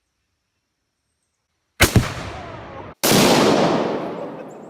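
Silence, then about two seconds in a sharp explosive blast with a rumbling decay that cuts off abruptly, followed at once by a second, louder blast that fades over about a second and a half: Tannerite exploding targets detonating.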